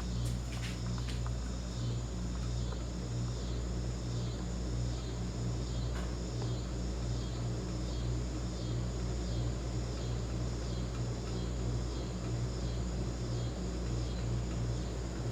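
CEC hugger ceiling fan with five cane blades running steadily: a constant low motor hum with a soft high whir that pulses about once a second as it turns.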